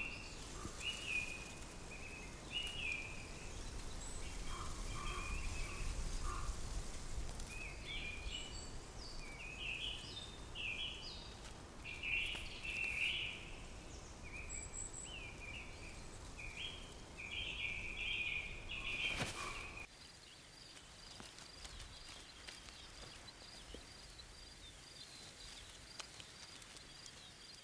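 Short, repeated bird chirps and calls over outdoor ambience. About twenty seconds in the background cuts to a quieter one, with a faint, high, regular chirping about twice a second.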